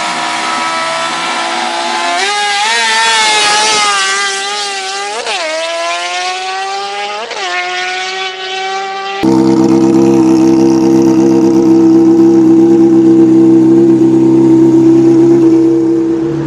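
Motorcycle engine running, its pitch wavering with two quick throttle blips in the first half. An abrupt cut about nine seconds in leads to a louder, steady engine note.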